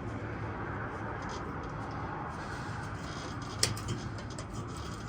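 Hand tools working the nuts of an exhaust clamp under a truck: one sharp metallic click a little over halfway through, followed by a short run of light ticks, over a steady low hum.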